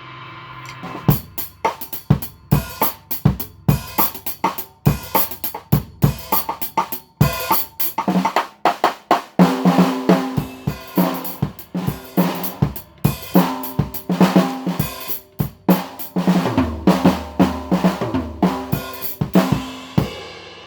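Drum kit played in a fast groove, with a 14 x 8 snare drum built from a 3D-printed marble PLA shell, along with bass drum, hi-hat and cymbals; the playing starts about a second in.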